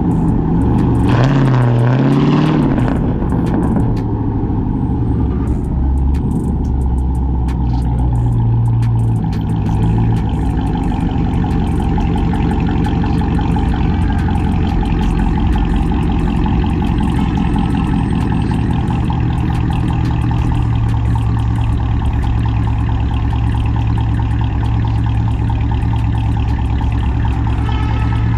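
Cammed, catless, straight-piped Chrysler 300C Hemi V8 exhaust: it revs up and back down about a second in, then runs on with a steady, loud, low rumble.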